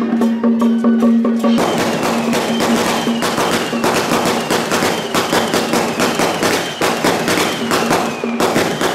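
Traditional procession percussion: a sustained pitched tone over a steady wood block beat, which about one and a half seconds in is swamped by a dense, crashing, crackling din of many rapid strikes that lasts until near the end.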